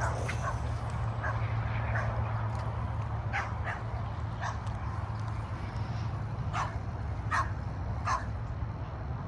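A dog barking in short, sharp yips, about eight in small clusters, over a steady low hum.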